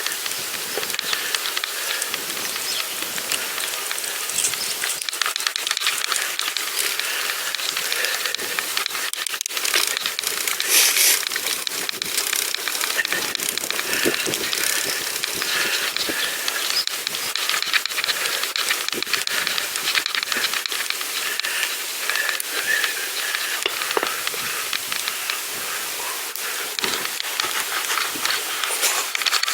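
Steady crackling hiss of a pedal bicycle rolling along a path, thick with small clicks, with a louder flurry of crackle about eleven seconds in.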